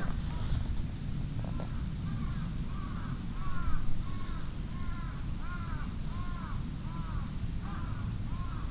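A crow cawing in a quick series, about two calls a second, over a steady low outdoor rumble, with a few faint high chips from small birds.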